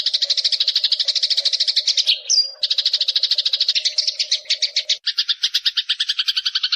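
Eurasian tree sparrow chattering: a rapid, even run of short notes, about a dozen a second, with a brief squeaky glide about two seconds in. Near the end the notes take on a lower second tone.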